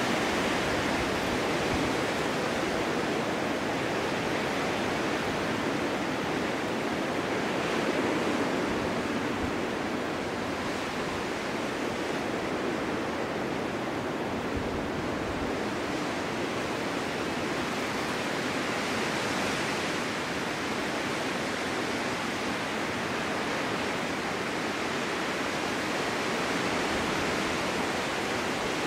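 Winter storm wind blowing steadily, a constant rushing hiss that swells gently a few times.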